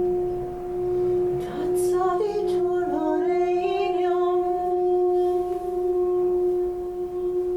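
A singing bowl ringing a steady, pure tone, its loudness swelling and easing in slow waves at first. From about two seconds in, a voice sings wordless, sliding tones over it for a couple of seconds, then the bowl tone carries on alone.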